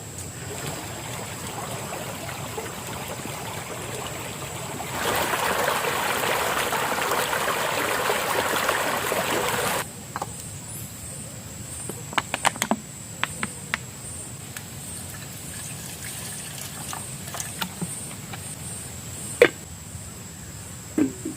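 Water pouring or trickling, building up and then running louder for about five seconds before stopping suddenly. Afterwards a scatter of light clicks and knocks, with one sharper knock near the end.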